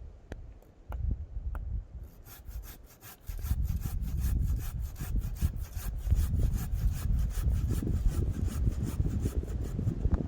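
Hand saw cutting through wood in quick, regular back-and-forth strokes, starting about two seconds in after a few light knocks.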